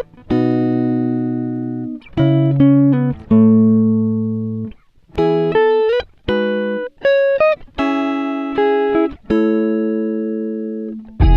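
Background music: a plucked string instrument playing short phrases of notes and chords that ring and die away, with brief gaps between phrases.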